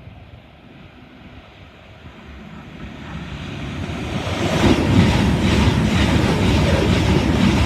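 Two coupled Class 221 Super Voyager diesel trains approaching and passing through at speed. The sound swells over the first four seconds into a loud rush with a regular clatter of wheels over rail joints.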